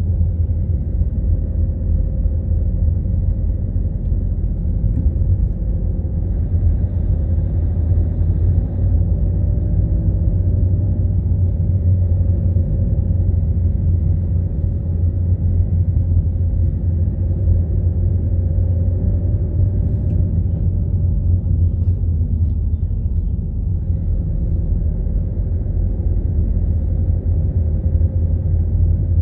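A car driving: a steady low rumble of engine and road noise with no sudden changes.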